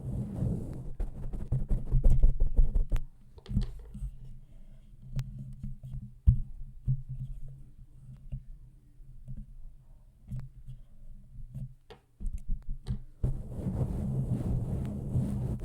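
Close-up ASMR trigger sounds: low rubbing and handling noise right on the microphone, breaking about three seconds in into scattered soft taps and clicks, with the rubbing coming back near the end.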